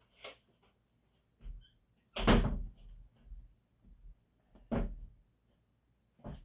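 A loud thump about two seconds in and another a little before five seconds, with fainter knocks between.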